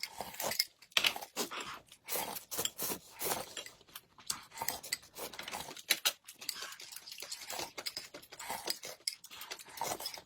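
Close-miked eating sounds: chewing and biting, with many irregular wet clicks and smacks.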